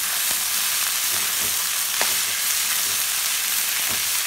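Chopped radish and radish greens sizzling in hot oil in a kadai while being stir-fried to cook off their rawness, with a steel spoon scraping and clicking against the pan several times.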